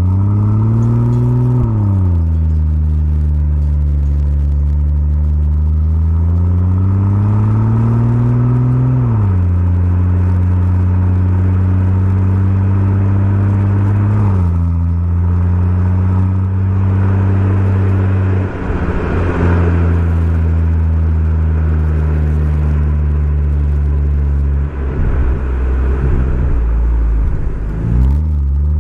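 BMW M140i's 3.0-litre turbocharged straight-six running through a Remus exhaust under way, revs climbing and then dropping sharply at gear changes three times. In the second half the revs hold and sink slowly, with two stretches of crackling.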